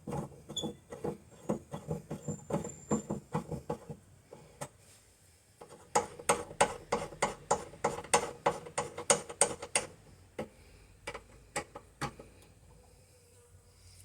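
Rapid runs of sharp clicks or knocks, several a second, loudest about halfway through and thinning out near the end.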